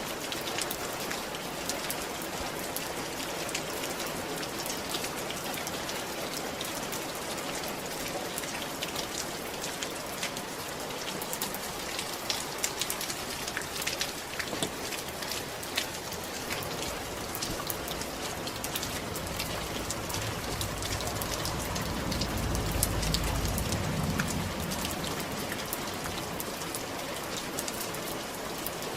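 Rain falling steadily on a roof, a dense patter with sharp individual drop ticks. About two-thirds of the way through, a low rumble swells and fades under the rain.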